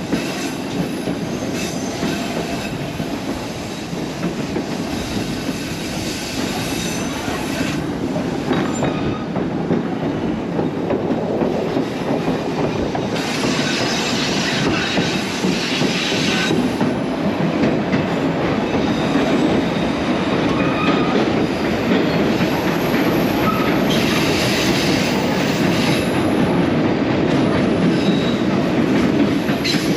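Train wheels rumbling steadily on the rails of the White Pass narrow-gauge railway, heard from aboard a vintage passenger coach, with three spells of higher-pitched wheel squeal over the rumble.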